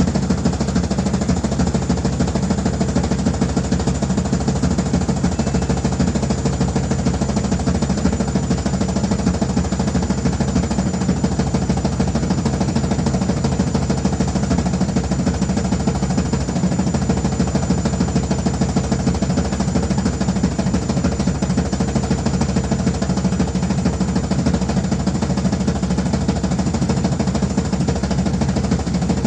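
Washing machine running steadily and loudly: a dense low drone with a fast, even vibrating texture and a faint high whine, unchanging throughout.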